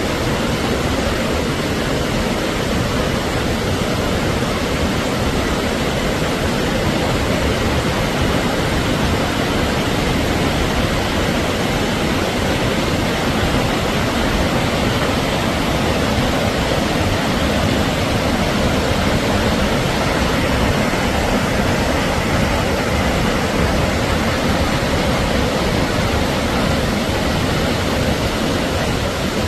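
Waterfall rushing: a loud, steady wash of falling water with no change.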